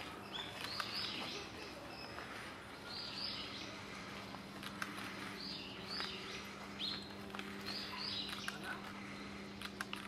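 Wild birds calling: short high chirps that come in small clusters every second or two. Under them runs a steady low hum with a few faint clicks.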